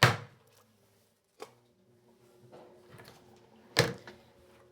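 Three sharp knocks, loud at the start, a lighter one about a second and a half in, and another loud one near the end, with a faint steady hum under the later part.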